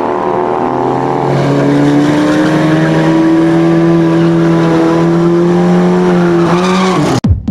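Drag-racing motorcycle engines at full throttle during a pass: a loud, high, steady engine note rising slowly in pitch, then falling sharply near the end before cutting off abruptly.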